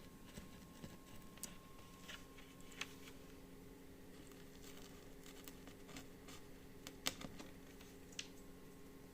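Faint, scattered clicks and taps of hands handling electrical cables as they are fed through holes in an MDF board, over a low steady hum.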